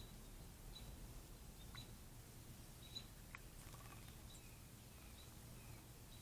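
Faint, short, high chip notes of a chipping sparrow, repeated irregularly about once a second, with a few sharp clicks in between.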